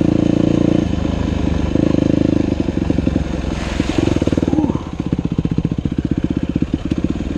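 Dirt bike engine running at low revs on a trail, the throttle opened and closed in short spells, then settling to a slow, even putter about halfway through. A short hissing scrape comes just before the engine settles.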